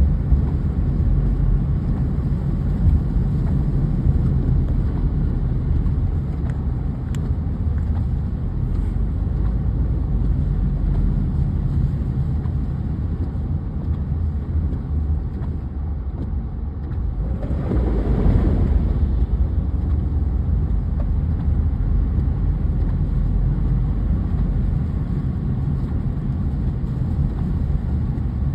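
Steady low rumble of a car driving, with a brief louder swell of noise about eighteen seconds in.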